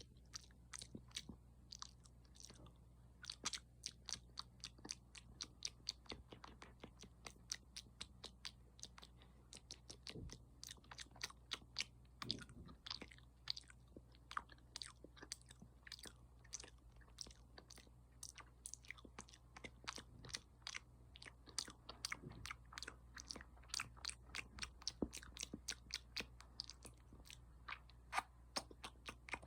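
Close-miked ASMR mouth sounds: quick wet clicks and smacks of tongue and lips, several a second, over a faint low hum.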